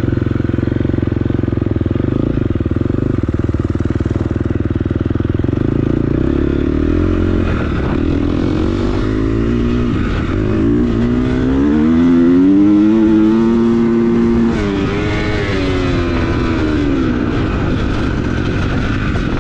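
Four-stroke dirt bike engine under wide-open throttle. It runs steadily at first, then from about ten seconds in the revs climb to their loudest and highest, and they fall away a few seconds later.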